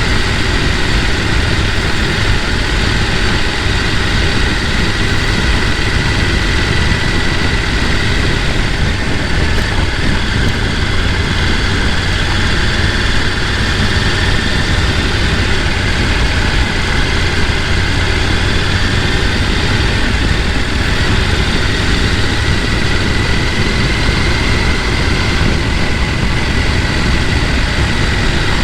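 Mountain stream rushing over rocks: a steady, unbroken wash of flowing water.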